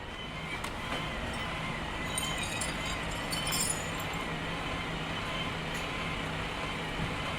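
City ambience: a steady rumble of vehicle noise with a faint wavering whine, and a few light clicks and rattles about two to three seconds in.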